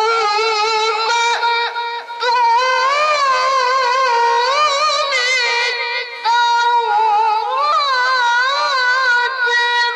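A child's high voice reciting the Quran in melodic tilawah style, holding long notes with wavering ornamented turns and pausing briefly for breath twice.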